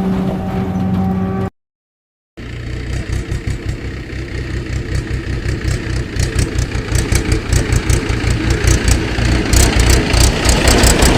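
A motor engine idling with a fast, even chugging beat that slowly grows louder. It is preceded by a steady tone that cuts off suddenly about a second and a half in, followed by a brief gap of silence.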